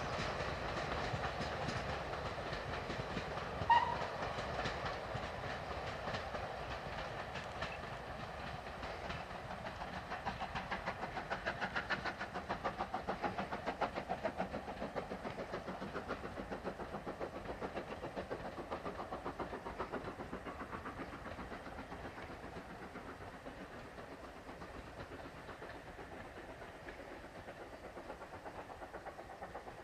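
A steam-hauled train of coaches running away along the line, fading steadily as it goes. A brief sharp high note sounds about four seconds in, and the locomotive's exhaust beats pulse about three times a second for a while before dying away.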